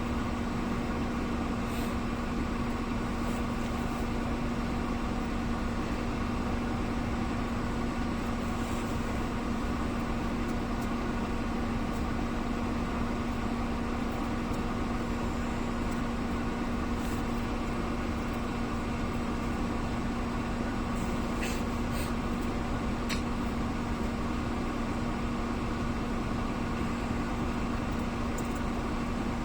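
Steady machine hum with one constant low tone, unchanging throughout, with a few faint ticks about two-thirds of the way in.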